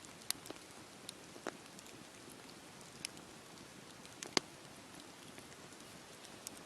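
Wood fire burning in a fireplace: a soft steady hiss with irregular sharp crackles and pops, the loudest a little after the start, about three seconds in and just past four seconds.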